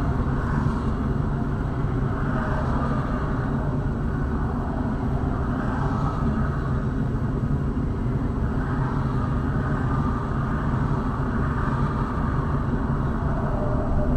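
Steady rumble of a car on the move: engine and road noise with no distinct impacts.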